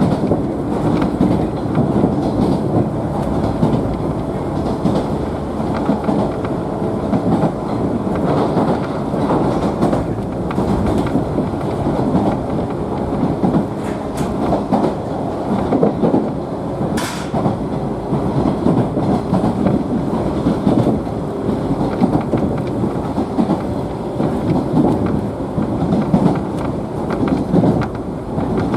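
Ride noise inside a JNR 113-series electric train car running between stations: a steady rumble of the wheels on the rails with clicks from the track joints, one sharper click about 17 seconds in.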